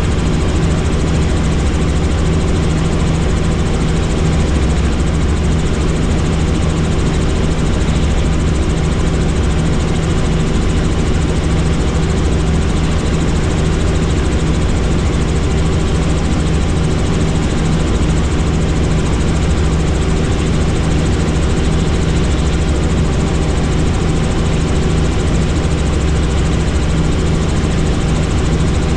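Helicopter in flight: steady turbine and rotor noise, a deep hum over a wide rushing noise, unchanging throughout.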